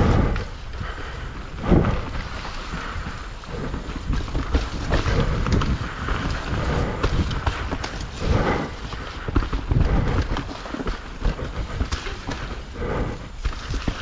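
Mountain bike rattling and clattering over a rough, wet trail, tyres rumbling, with several heavier thuds from roots or rocks and wind buffeting the microphone.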